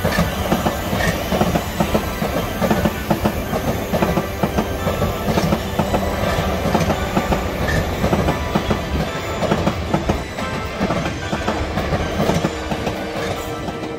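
South Western Railway electric multiple unit passing close by, its wheels clattering over the rail joints in a quick, steady run of clicks.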